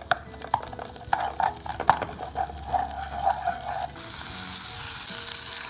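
Garlic frying in sizzling butter in a nonstick saucepan, stirred with a spatula that clicks and scrapes against the pan. About four seconds in, mashed arracacha is tipped into the pan and a steadier hiss of frying takes over.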